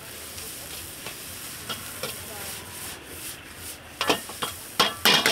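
Food sizzling as it is stirred, with a run of sharp loud scrapes or knocks in the last second and a half.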